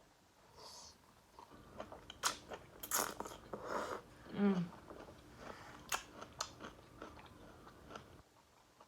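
Close-miked biting and chewing of food, with sharp crunchy bites of crisp asparagus, mouth sounds loudest in the middle. A short hummed 'mm' about halfway through.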